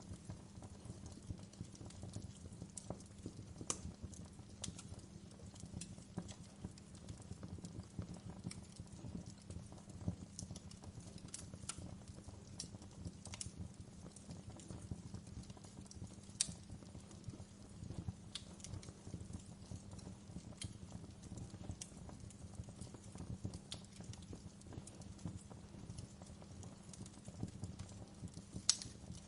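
Wood fire crackling in a fireplace: a low steady rumble of burning with scattered sharp pops and snaps, the loudest about halfway through and again near the end.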